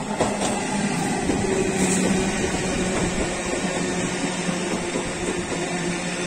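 Electric multiple unit local train pulling into a station and rolling past close by: steady rumble of wheels on rail with a steady hum, and a few sharp clicks as the front cab reaches the platform.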